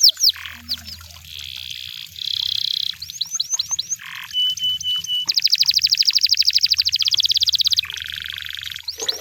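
Canary singing a varied song in repeated phrases. It moves through quick falling notes, buzzy trills and a few short steady whistles, with a long, very fast trill in the middle.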